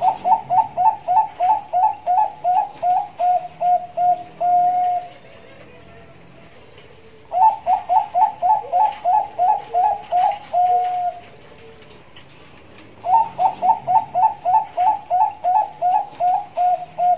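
Zebra dove (Bangkok perkutut) singing: three phrases, each a quick run of about a dozen short cooing notes ending in one longer held note, with a pause of about two seconds between phrases.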